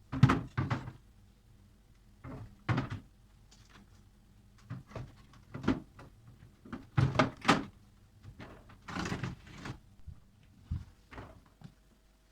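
Irregular knocks and clunks of household objects being handled and set down, a dozen or so, with a brief rustling hiss about nine seconds in.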